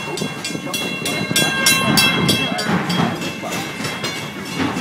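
Steam train running along the track, heard from a passenger car: a rhythmic clatter about three times a second, with high steady tones over the first half that fade out.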